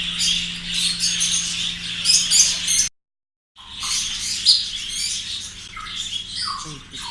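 Many caged birds chirping and whistling at once in a dense, continuous chatter of short high calls. The sound cuts out completely for a moment about three seconds in, then the chatter resumes.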